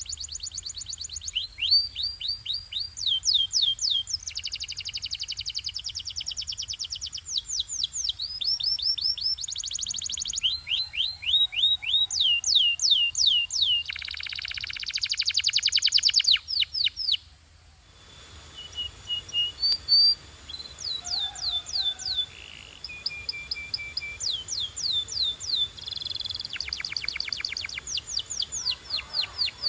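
Domestic canary singing a continuous song made of rapid trills, each phrase a fast run of repeated, downward-sweeping high notes. The phrases change every second or two. There is a brief pause a little past the middle.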